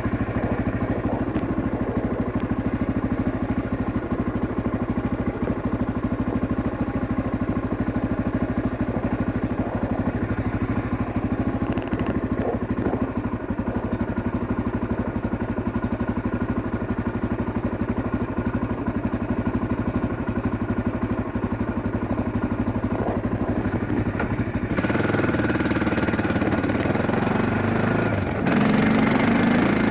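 Dirt bike engine running steadily as the bike is ridden. The sound changes abruptly twice near the end.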